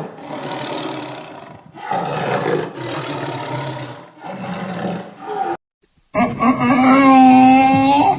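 Big cat roaring: three long, rough roars in a row. About six seconds in, after a short break, a different animal starts a loud, drawn-out pitched call.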